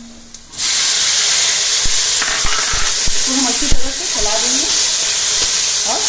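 Chopped tomatoes going into hot mustard oil with onions and spices in a kadhai: a sudden loud sizzle starts about half a second in and keeps going, with scattered clicks of a spatula stirring and one sharper knock a little before four seconds.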